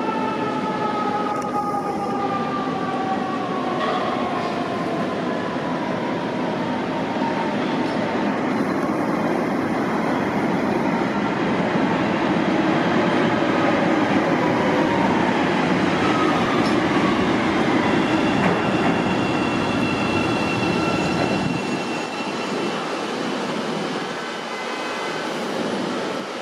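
CTA 'L' rapid-transit train running on the track: a steady rumble of wheels on rails, with a whine falling in pitch over the first few seconds. The noise drops off about twenty-one seconds in.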